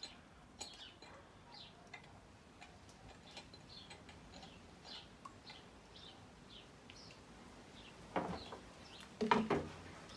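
A small bird chirping over and over, short high falling notes about twice a second. About 8 and 9 seconds in, two louder knocks as plastic bottles are put down and picked up on a wooden table.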